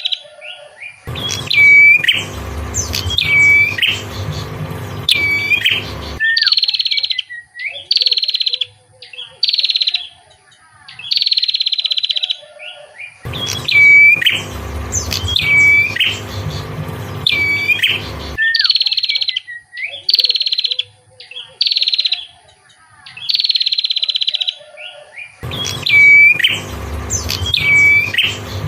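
Songbird singing: runs of short, high whistled notes, many falling in pitch, with a low hum beneath some phrases. The same song sequence repeats about every twelve seconds, a looped recording.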